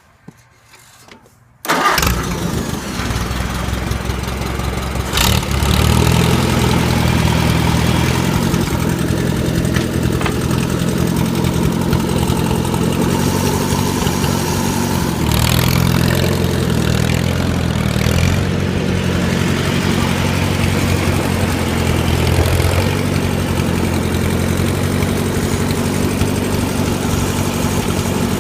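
Allis-Chalmers tractor engine starting about two seconds in, then running steadily.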